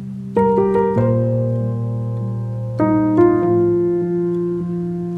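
Background piano music: slow, sustained chords, with new chords struck about half a second in, at one second, and twice around the three-second mark.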